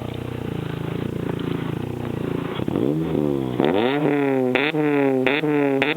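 Car engine idling, then revved from about halfway in: the pitch climbs, then four quick throttle blips rise and fall, each dropping back toward idle. It runs through an aftermarket exhaust.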